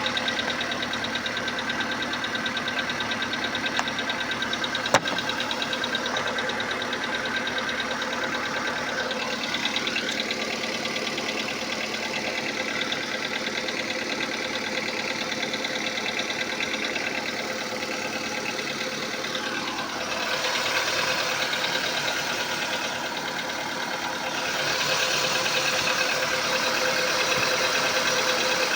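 Volkswagen Polo Sedan 1.6-litre 105 hp four-cylinder petrol engine idling shortly after a cold start, freshly flushed and on new oil. The engine note shifts a few times and gets louder about 25 seconds in, with one sharp click about five seconds in.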